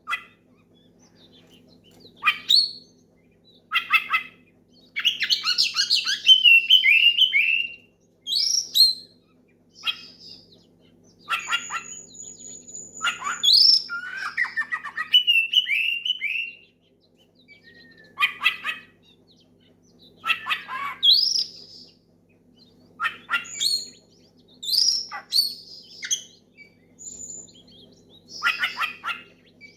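Oriental magpie-robin (kacer) singing loudly in short, varied phrases of quick whistles and harsher notes, a fresh phrase every second or two, with one long high held whistle about twelve seconds in. This is a male in full song calling out to rivals, the kind of song used as a lure to set other magpie-robins singing.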